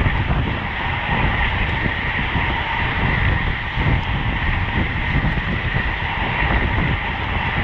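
Wind rushing over the microphone of a road bike ridden at speed, with steady rumble from tyres on the road.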